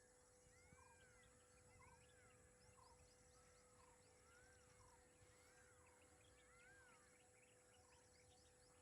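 Near silence with faint outdoor animal calls: short chirps repeating about once a second and occasional arching, bird-like calls, over a steady faint hum.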